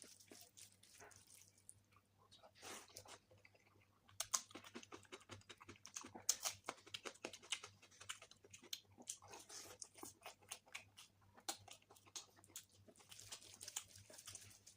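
Faint chewing of masala egg curry with rice: soft, irregular mouth clicks and smacks, sparse at first and busier from about four seconds in.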